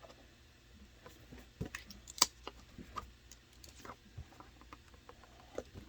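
Scattered clicks, taps and light scrapes of a plastic 3D print being pried and worked off a 3D printer's build plate, with one sharp click about two seconds in.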